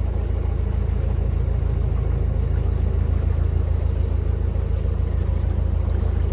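A narrowboat's diesel engine running steadily under way, a low, even chugging drone.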